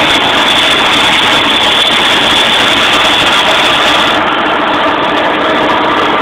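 5.4-litre SOHC V8 with a ported Eaton M112 supercharger running steadily at idle, loud and heard up close in the engine bay.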